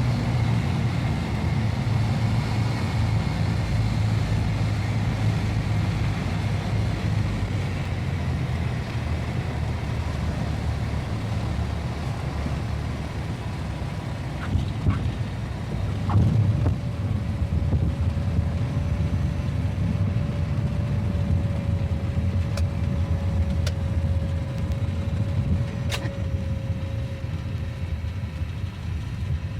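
A motor vehicle's engine running with a steady low rumble, with a few sharp clicks and a faint steady whine in the second half.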